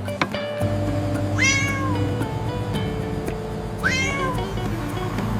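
A cat meowing twice, each meow about a second long and rising then falling in pitch, over background music.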